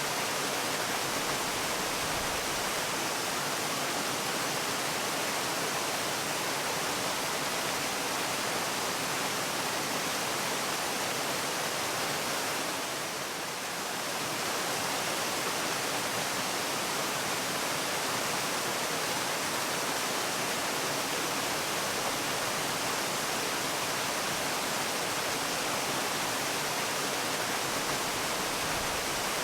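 Steady rush of falling water from a waterfall, an even hiss-like noise that dips slightly for a moment about halfway through.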